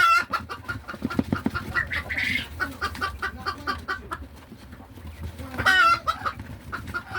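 Hen chickens cackling the egg song: a run of quick repeated clucks with two loud drawn-out squawks, one at the start and one about six seconds in, the call a hen makes after laying.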